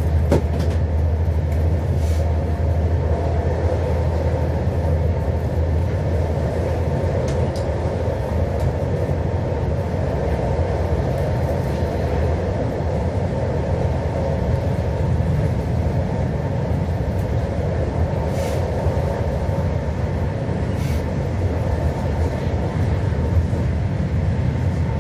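Steady rumble of a moving passenger train heard from inside the carriage, with a few faint clicks over it.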